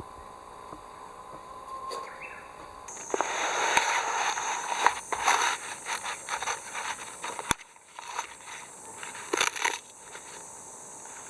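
Irregular crackling and rustling, dense for a few seconds, then sparser after a sudden break.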